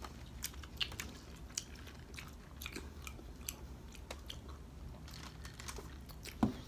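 Close-up eating sounds: wet chewing, biting and lip-smacking clicks as orange slices are bitten and sucked, with one louder knock near the end.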